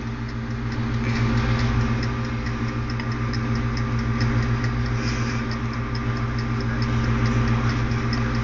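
Toaster oven's wind-up timer ticking rapidly and evenly, about five ticks a second, counting down toward its ding, over a steady electrical hum.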